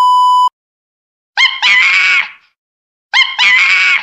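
A TV test-pattern beep: a steady high-pitched tone for about half a second, then silence. Then the same short animal cry twice, about a second and a half apart.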